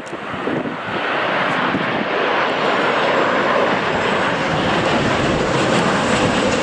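Airliner's engines passing close on approach to land, a heavy rushing noise that swells over the first second and then holds loud and steady, with a faint high whine above it.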